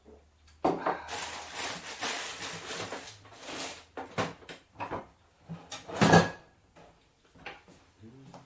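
Kitchen handling sounds: a sharp knock, a few seconds of dense rustling, then a string of separate knocks and clatters, the loudest about six seconds in.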